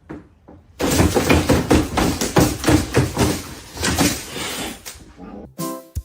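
A rapid series of knocks or bangs, several a second, that starts about a second in and runs for about five seconds.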